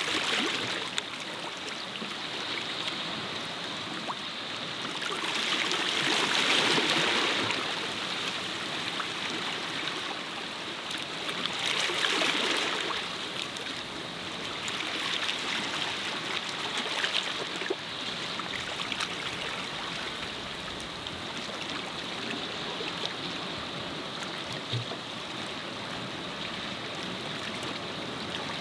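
Small sea waves washing onto the shore of a cove: a steady rush of water that swells louder every few seconds as each wave comes in.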